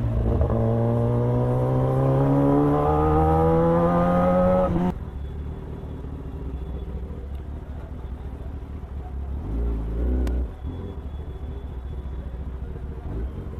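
Kawasaki ZX-10R's inline-four engine pulls steadily up through the revs under acceleration for about five seconds. Its note then cuts off suddenly to a quieter low rumble of engine and wind, which swells briefly about ten seconds in.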